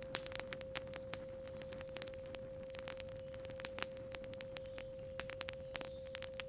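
Campfire crackling and popping in irregular sharp snaps over a steady 528 Hz pure tone.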